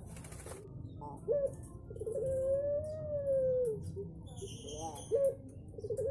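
Puter pelung (Barbary dove) cooing: a short note, a quick rolling stutter, then a long drawn-out coo that rises and falls, with the phrase starting again near the end.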